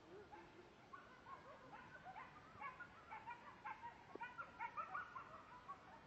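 Wolf pack chorus, faint: the tail of a low falling howl at the start, then many overlapping short yips and quavering barks that build to a peak about four to five seconds in and then thin out.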